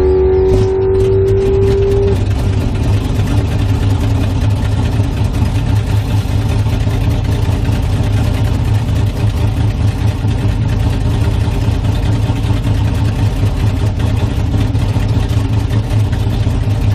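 Turbocharged LS V8 of a Chevy II Nova drag car idling, a steady deep rumble heard from inside the stripped cabin. A steady high whine cuts off about two seconds in.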